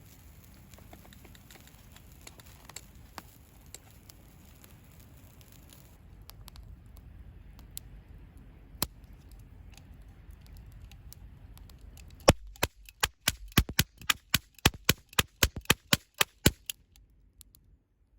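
Campfire burning with a low steady hiss and a few faint pops, then a rapid run of about fifteen loud, sharp knocks over some four seconds, much louder than the fire.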